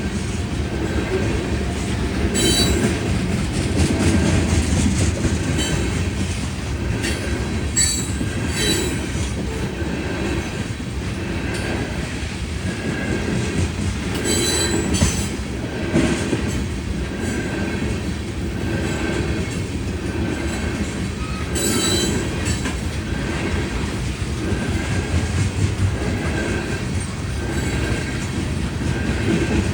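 Freight train of ethanol tank cars rolling past with a steady rumble of wheels on rail. Brief high wheel squeals and clicks come now and then, a few seconds apart.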